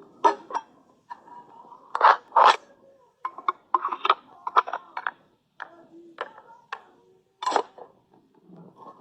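A series of irregular short scraping strokes, the loudest about two seconds in and again near the end.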